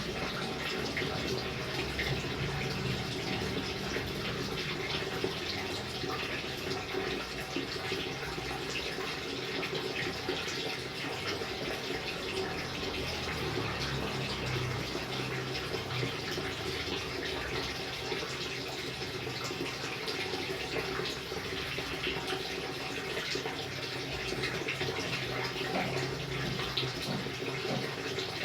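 Steady rain, water falling and splashing continuously at an even level.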